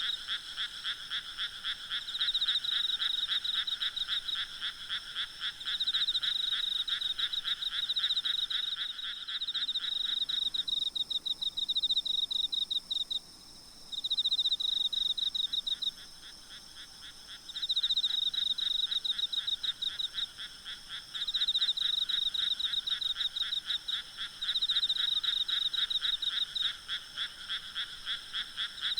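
Frogs calling in a night chorus: fast trains of croaks in bouts of a few seconds, two voices at different pitches overlapping. The lower-pitched caller falls silent about a third of the way through and comes back after several seconds.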